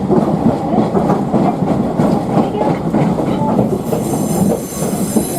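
Toyama Chiho Railway electric train running, its wheels clattering steadily over the rail joints. A high squeal comes in about four seconds in.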